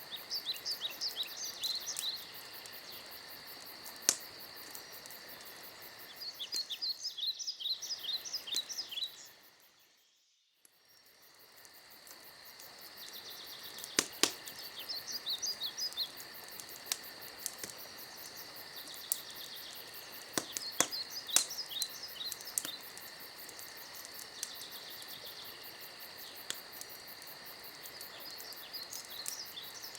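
Night forest ambience: a steady chorus of crickets, with louder trains of rapid chirps every few seconds and scattered sharp crackles and pops from a campfire. About ten seconds in, everything fades briefly to near silence and then fades back in.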